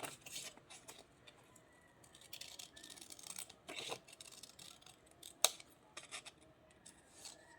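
Scissors cutting paper: a few sharp, separate snips, near the start, about four seconds in and about five and a half seconds in, with faint paper rustling between them.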